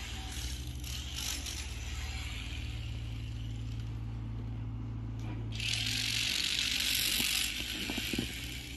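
Komatsu PC350 excavator's diesel engine running with a steady low hum. A loud hiss comes in a little past halfway and lasts about two seconds, with a few light clicks near the end.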